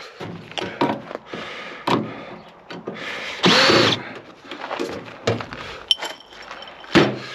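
Knocks, clicks and clatter from handling an old microwave oven's sheet-metal cabinet and tools, with a short, louder noisy burst about three and a half seconds in.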